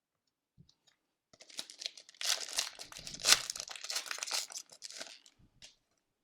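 Wrapper of a sealed hockey card pack being torn open and crinkled. The crackle starts about a second in and lasts about four seconds.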